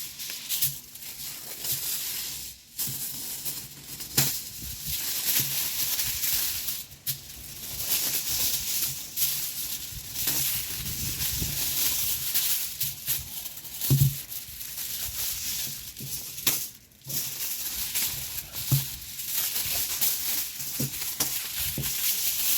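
Steady rain patter, a continuous hiss with scattered clicks and knocks, and a low thud about fourteen seconds in.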